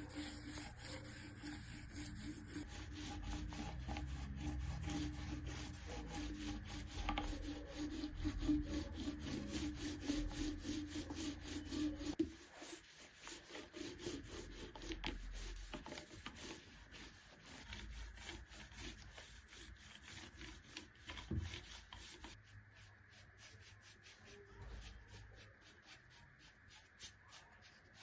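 Rapid, even back-and-forth rubbing strokes on a wooden surface, from hand work on a wooden niche being readied and painted white. The strokes are louder for the first twelve seconds or so, then go on more softly.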